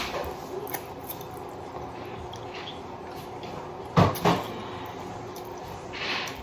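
Eating utensils knocking against a bowl of noodles, with small clicks and a louder double knock about four seconds in, then a short hissy sound near the end.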